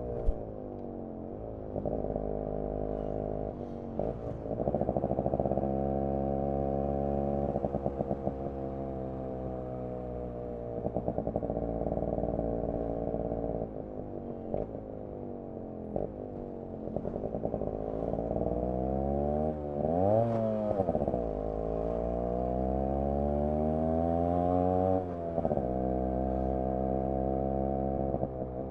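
Yamaha RX 100's single-cylinder two-stroke engine and exhaust under way. The engine note rises in pitch again and again as it accelerates, falling back at each gear change or when the throttle eases. About twenty seconds in it drops, then revs up sharply.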